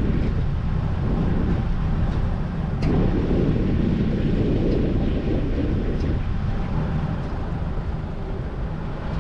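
Steady low rumble of a boat engine, with wind buffeting the microphone.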